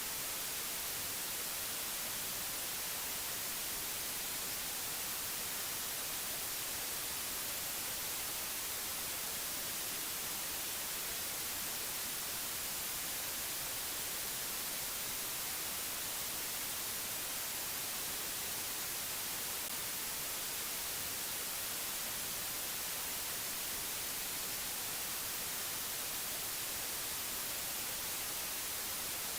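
Steady static-like hiss, unchanging throughout and brightest in the high treble, with no other sound.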